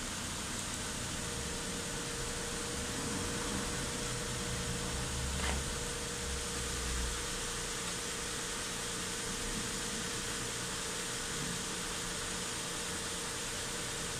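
Hyundai Santa Fe's V6 engine idling steadily while warming up from cold, running smoothly without misfiring. There is a single faint click about five and a half seconds in.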